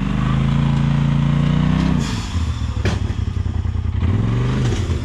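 Off-road vehicle's engine revving hard under load on a rock climb: the pitch rises for about two seconds, then drops off suddenly as the throttle is let off. A sharp knock follows a little under a second later, and a second, shorter rev comes near the end.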